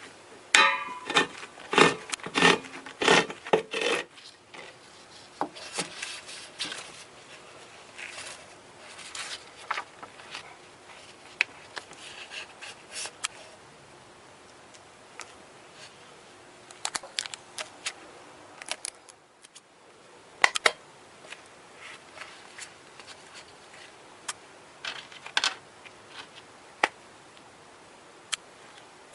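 Small parts and tools being handled by hand: irregular clicks, taps and rubbing, busiest in the first four seconds and then scattered, with a brief squeak near the start.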